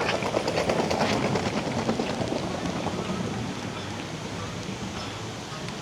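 Steady rain falling, with a dense patter of drops that is heaviest in the first couple of seconds and then eases.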